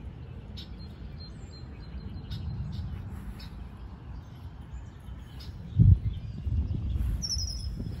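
Birds chirping in short high calls, with a quick falling run of notes near the end, over a steady low rumble on the microphone. A dull thump about six seconds in is the loudest sound.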